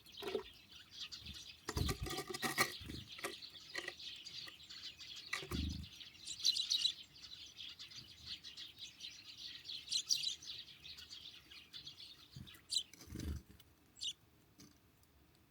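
Small songbirds chirping and calling at a winter feeder, with quick high chirps throughout and scattered clicks of pecking. A few low thumps come about two seconds in, about five and a half seconds in, and near the end.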